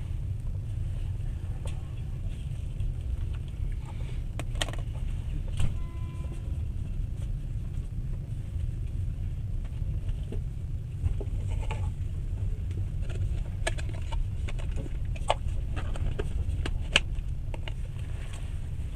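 Passenger train running, heard from inside the carriage: a steady low rumble with scattered light clicks and rattles at irregular moments.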